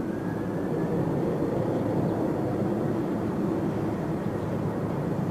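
Jet airliner's engines at takeoff thrust: a loud, steady rumble that grows louder in the first second, with a faint whine rising in pitch.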